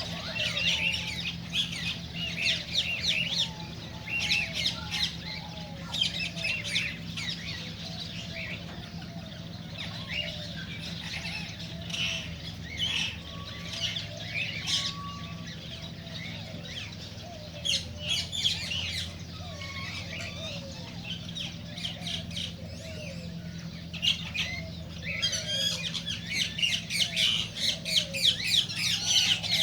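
Cockatiels chirping and squawking in quick bursts, several birds calling over one another, busiest in the last few seconds. A steady low hum runs beneath.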